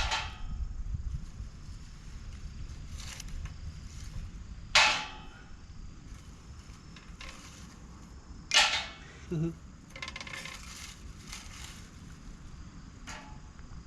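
Ferro rod fire starter struck with its scraper in repeated short, sharp scrapes: three loud ones about four seconds apart and several fainter ones between. The sparks are not catching the tinder.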